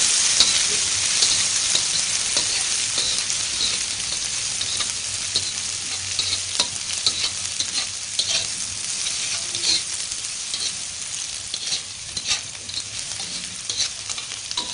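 Sliced garlic, shallots, spring onion and chillies sizzling in hot oil in a wok, stirred with a spatula that scrapes against the pan. The sizzle crackles with small pops and slowly dies down.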